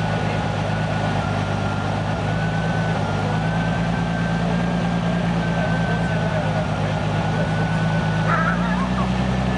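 Turbocharged engine of a BMW E30 running at a steady cruise, a steady drone with a thin high whine above it. The engine note rises slightly near the end.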